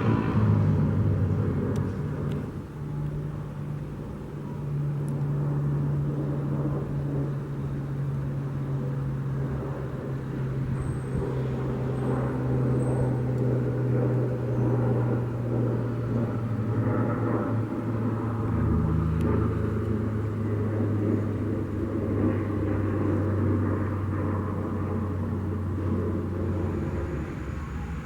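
Propeller aircraft engine running on the ground: a low, steady drone whose pitch steps down about two-thirds of the way through.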